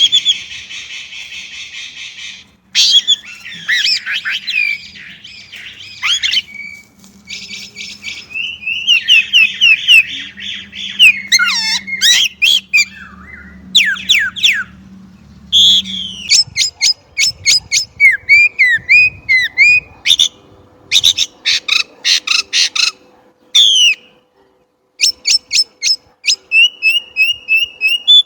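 Chinese blackbird singing a long, varied song: harsh buzzy phrases at first, then quick runs of sharp notes, curving whistles and short repeated trills.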